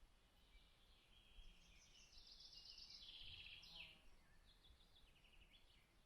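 Faint songbird singing: quick trilled phrases of rapidly repeated high notes, loudest about halfway through, over quiet outdoor background noise.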